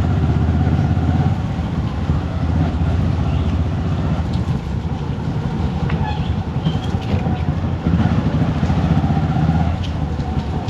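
Motorcycle engine running steadily while the bike is ridden, with wind and road noise rushing over the camera microphone.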